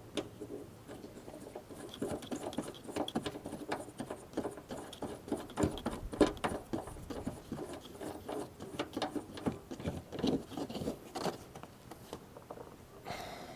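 Hands working interior trim hardware on a small nut: a quiet, irregular run of light clicks, taps and rubbing as it is fitted to the rear cargo-area panel.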